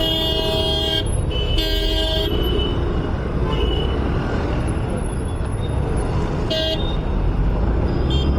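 Vehicle horns honking in busy city traffic: two honks in the first couple of seconds and a short one near the end, over a steady low rumble of engines and road noise.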